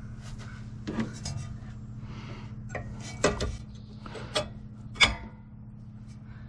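Metal tools and parts clinking and clattering as they are handled, with several sharp knocks, the loudest about five seconds in, over a steady low hum.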